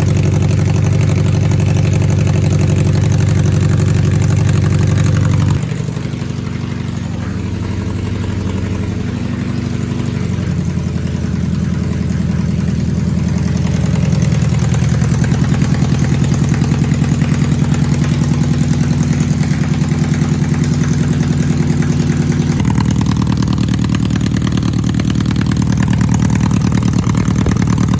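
1991 BMW K1's inline four-cylinder engine idling steadily, its exhaust note heard through an aftermarket exhaust. About six seconds in the sound drops abruptly in pitch and loudness, then climbs gradually back up, and steps up again near the end.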